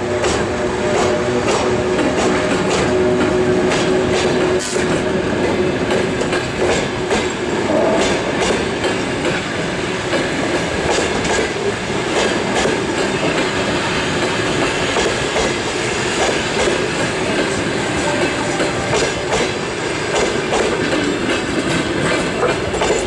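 Passenger train pulling out behind an EP1M electric locomotive: the locomotive passes with a steady hum for the first five seconds or so, then the passenger coaches roll by with a continuous rumble and wheels clicking over the rail joints.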